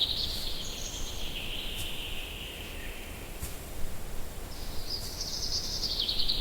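Outdoor nature ambience with two long, buzzy trilling calls that slide down in pitch, one at the start and another from about two-thirds of the way through.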